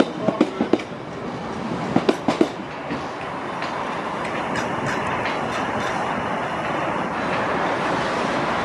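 CTA 7000 Series 'L' train's wheels clacking over rail joints in two quick clusters, at the start and about two seconds in. Then a steady rolling rumble follows, growing slightly louder.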